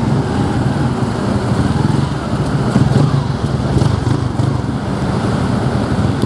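Motorcycle taxi running steadily at riding speed, heard from the pillion seat, with the hum of surrounding road traffic.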